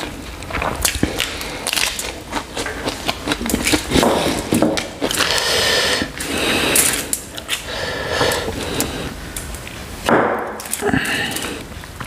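Close-miked chewing of a mustard-leaf wrap of rice with chicken curry, with many quick wet mouth clicks and crackles.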